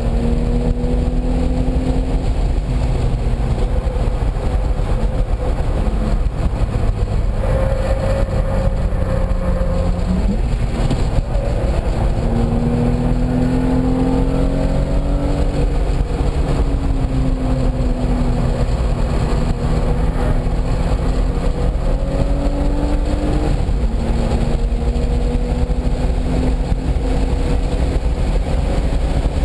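Car engine driven hard around a race track, heard from on board over a steady low rumble. Its pitch climbs and falls with throttle and gear changes, jumping sharply about ten seconds in and dropping suddenly a little before the end.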